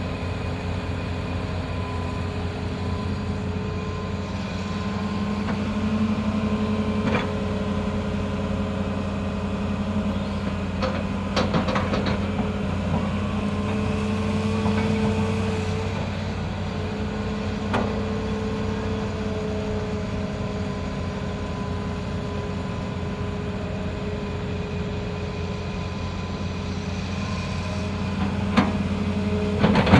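Excavator's diesel engine running steadily, with a few sharp knocks spread through.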